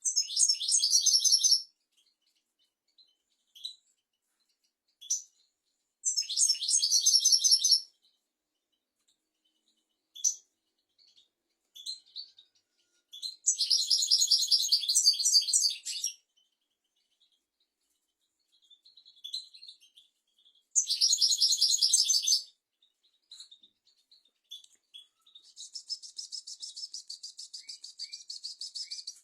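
European goldfinch singing: four bursts of rapid, high twittering song, each about two seconds long and several seconds apart, with short single call notes between them. Near the end comes a longer, evenly pulsed trill.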